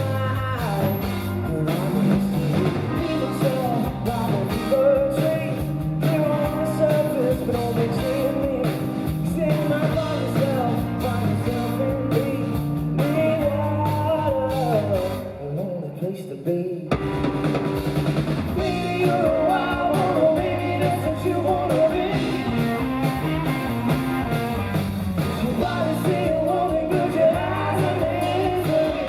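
Live rock band playing with drums, guitar and a lead singer, heard from the audience. Around the middle the band drops out almost completely for about two seconds, then comes back in at full volume.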